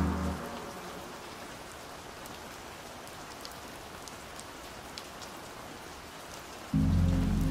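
Steady rain falling, with scattered drops ticking through it. A slowed, muffled, bass-heavy song fades out at the start, and the next one cuts in suddenly about a second before the end.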